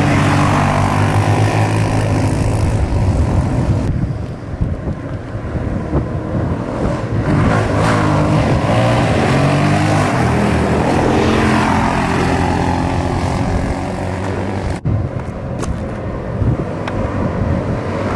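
Dirt bike engine running while riding, its pitch stepping up and down with throttle and gear changes, with wind noise on the microphone. The sound breaks off sharply for a moment about 15 seconds in.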